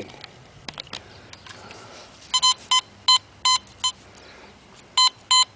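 Metal detector sounding a run of short, high beeps as it passes over a buried target, about five in quick succession a little over two seconds in, then two more near the end.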